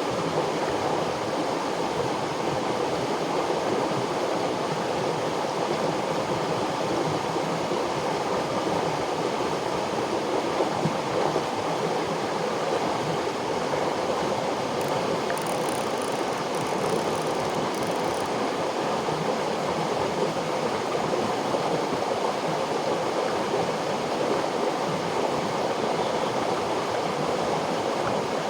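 River water flowing and rushing, a steady, even sound that doesn't change.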